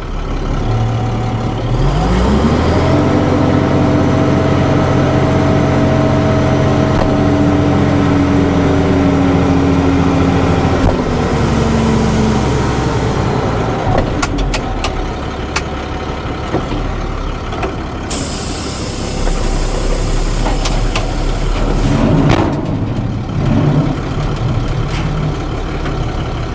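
Dump truck's engine revs up and holds at a steady raised speed for about eight seconds, working the hydraulics to tip the bed, then drops back to idle. Later there is scattered clattering and a brief rush of noise as the load goes out.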